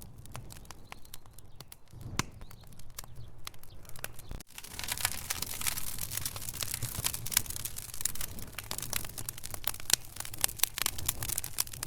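Wood fire in a fireplace crackling and popping, with many irregular sharp snaps over a steady low rumble. About four and a half seconds in, the sound drops out for an instant and comes back louder, with denser crackling and more hiss.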